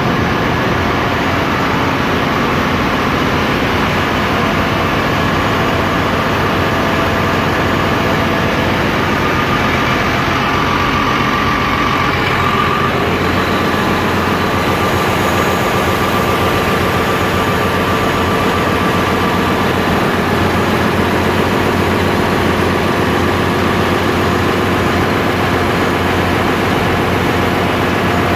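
Steady, loud din of running diesel machinery in a ship's engine room, a dense low rumble with many steady tones layered over it.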